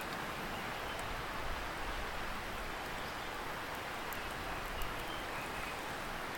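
Steady rushing hiss of a distant river, with a few faint, sharp crackles from a wood campfire.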